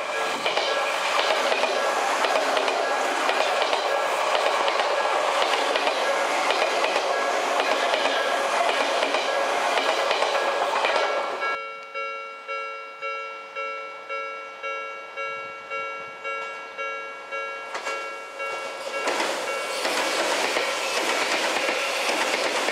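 An Odakyu Line electric train passes over a level crossing, drowning out the crossing's warning bell. About halfway through, the train sound falls away and the bell is heard alone, ringing at about two strikes a second. A second train passes from about three-quarters of the way in.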